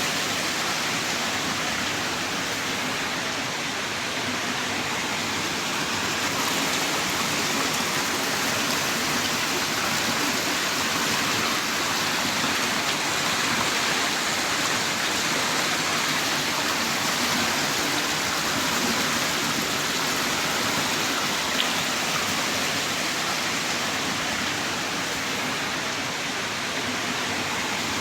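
Heavy rain downpour falling steadily, an even hiss with a few faint drop ticks.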